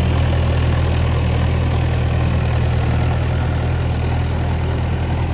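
Mahindra Arjun Novo 605 DI tractor's diesel engine running steadily, a constant low drone.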